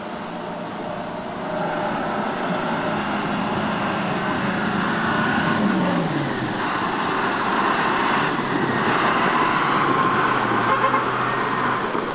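A heavy truck's engine running hard under load; its pitch drops about six seconds in.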